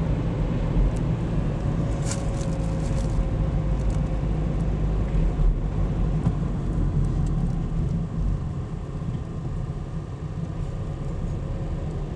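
A car driving along a road: a steady low rumble of engine and tyres, with a few faint crackles about two seconds in, easing a little about eight seconds in.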